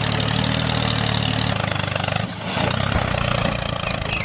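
A motor vehicle's engine running steadily, easing off about two seconds in.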